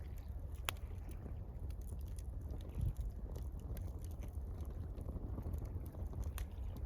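Campfire crackling with scattered sharp pops, two of them louder, about a second in and near the end, over a steady low rumble of water and wind.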